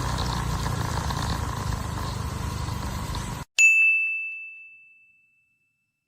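Steady vehicle road and wind noise that cuts off abruptly about three and a half seconds in. A single bright ding follows, ringing as one clear tone and fading out over about a second and a half against dead silence.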